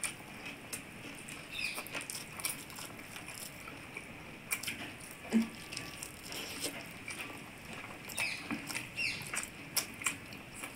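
Close-up eating sounds: wet chewing and lip-smacking, irregular short clicks and smacks, as chicken curry and rice are eaten by hand.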